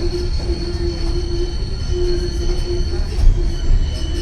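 White Pass & Yukon Route narrow-gauge passenger train rolling along the track: a steady low rumble of wheels and cars with a thin, steady high squeal. There is a single louder knock about three seconds in.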